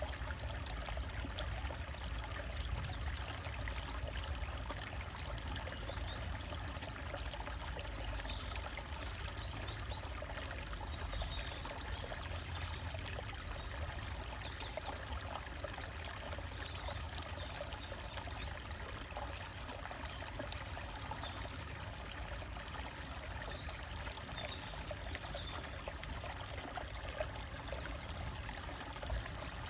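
Small forest stream trickling and splashing steadily over rocks, with occasional faint high bird chirps.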